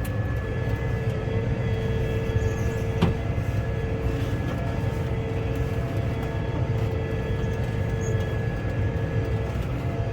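Case 140 tractor's diesel engine running steadily, heard from the cab, with a steady higher whine over the low engine sound. A single sharp click about three seconds in.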